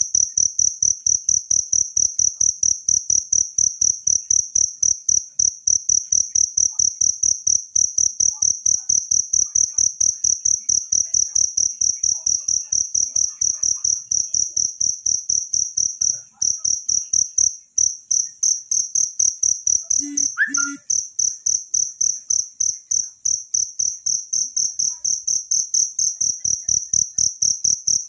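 Cricket chirping: a high, even trill pulsing several times a second without a break. A brief double note cuts in about two-thirds of the way through.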